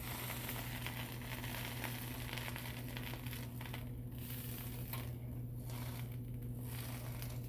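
Grilled cheese sandwich sizzling in butter in a frying pan, a crackly hiss that starts suddenly and briefly thins a few times in the second half.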